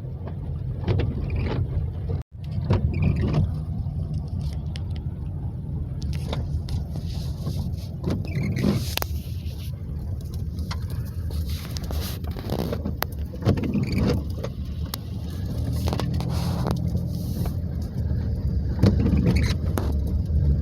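A car driving: a steady low rumble of engine and tyres, with scattered knocks and rattles. The sound cuts out for a moment about two seconds in.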